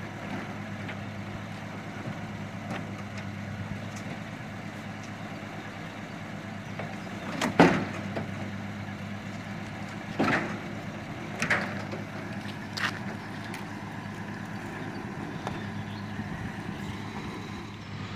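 An engine running steadily at idle, a low even hum, with four short knocks or clunks in the middle; the first knock is the loudest.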